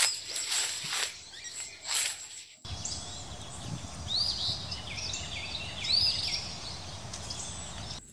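Footsteps crunching through dry leaf litter and brush, about one a second. Then, after an abrupt cut, birds chirping repeatedly in short rising-and-falling calls over steady outdoor background noise.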